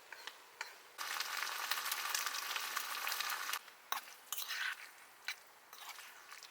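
Food sizzling in a hot pan, starting suddenly about a second in, then dropping back to scattered pops and spits after a couple of seconds.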